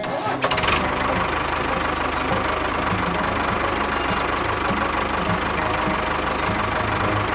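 Small engine running steadily at an even speed, with a fast, even pulse underneath.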